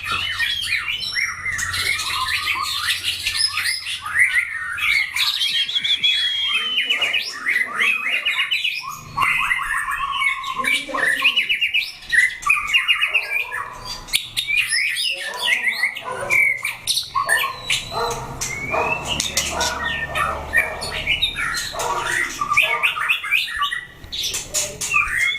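Several white-rumped shamas countersinging, their quick whistled phrases, trills and rapidly repeated notes overlapping in a continuous stream. The birds are being tested against one another for singing stamina.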